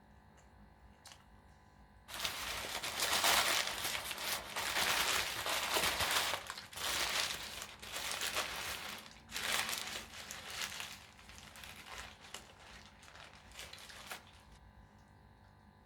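Food packaging being handled and crinkled in loud, uneven bursts of rustling that start about two seconds in and die away a little before the end.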